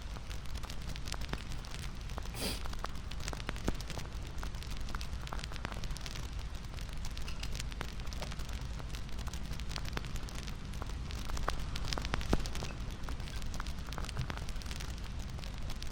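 Wood fire crackling: a steady low rumble with frequent sharp snaps and pops, two of them louder, about two seconds in and near the end.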